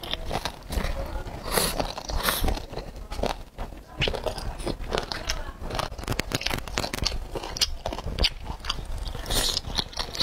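Close-miked biting and chewing of boneless chicken feet: irregular, wet crunches of skin and cartilage, one after another.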